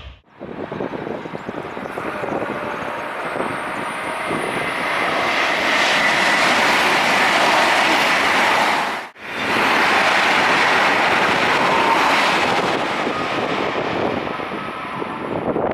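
High-speed train passing at speed: a loud, steady rushing of wheels on rail and air. The sound cuts off abruptly about nine seconds in, then a second pass comes straight in at the same level.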